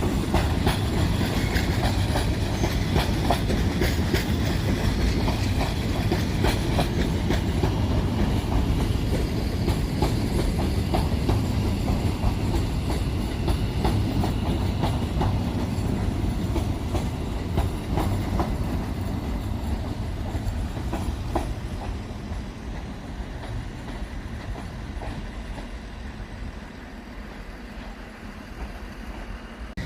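Pair of London Northwestern Railway Class 730 electric multiple units rolling into the platform, wheels clicking over rail joints with a low rumble that fades away over the last ten seconds as the train slows.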